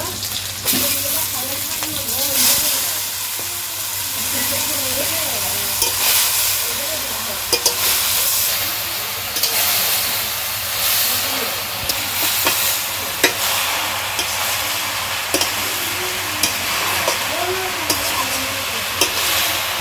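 Food frying in hot oil in a metal wok: a steady sizzle, with a metal spatula scraping and knocking against the pan now and then as rice is stirred through.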